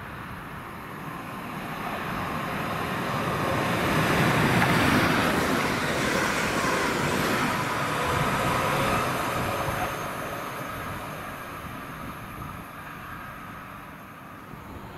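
A train passing through the station: its running noise swells to a peak about four to five seconds in, then slowly fades away.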